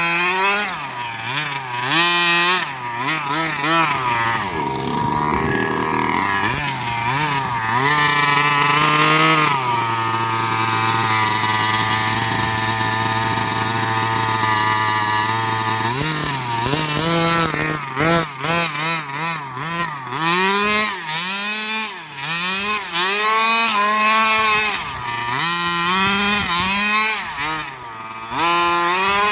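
Redcat Rampage XR Rally 1/5-scale RC car's 30cc two-stroke engine, fitted with a JetPro tuned pipe, revving up and down over and over as the car is driven. In the middle it holds a steady high rev for about six seconds.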